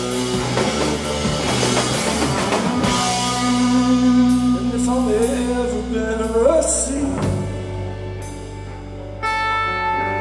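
Live rock band playing, with drums, guitar and singing.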